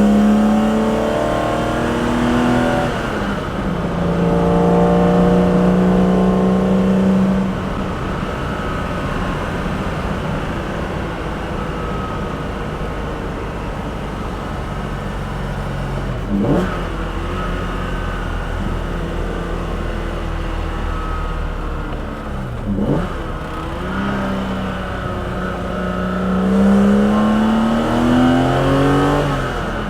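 BMW S38B36 3.6-litre straight-six in an E9 coupe, with individual-throttle-body induction and exhaust noise, accelerating hard through the gears. The note climbs, drops at an upshift and climbs again. It then settles lower for a long stretch, broken by two quick rev blips, before pulling hard again near the end.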